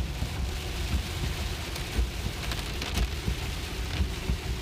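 Heavy rain falling on the car, heard from inside the cabin of a moving Tesla, over a steady low rumble of tyres on the wet road.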